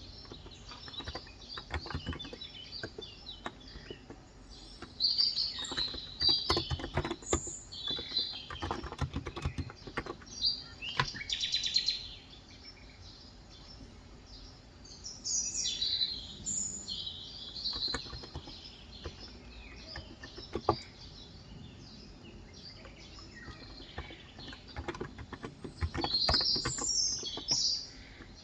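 Birds chirping in several bursts, one a short buzzy trill, over a steady hiss of rain. Between them come runs of keystrokes on a Cox Endeavor tenkeyless keyboard with 35 g capacitive switches.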